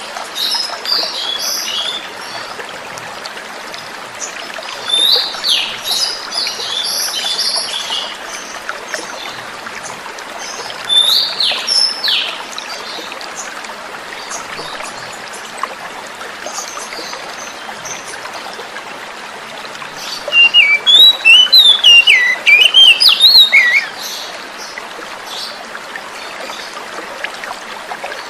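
Oriental magpie-robin singing in short phrases of whistles and sweeping notes, with a louder run of rapid, varied notes about twenty seconds in, over the steady hiss of flowing water.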